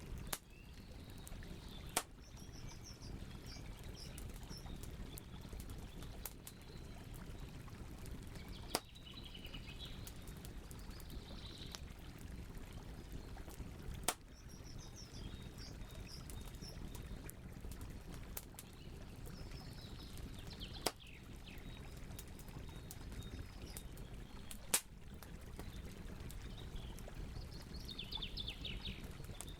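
Wood campfire burning with a steady low rush and crackling, broken by half a dozen sharp pops. Birds chirp in short bursts several times over it.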